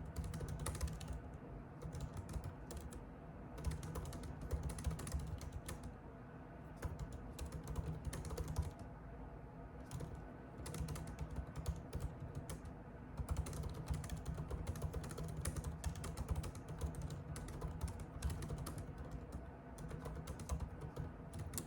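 Typing on a computer keyboard: rapid key clicks in bursts of a few seconds with brief pauses between them, over a low steady background rumble.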